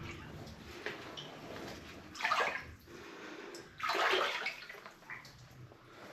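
Water splashing and sloshing as a person moves their feet or legs through it, with two louder splashes about two and four seconds in.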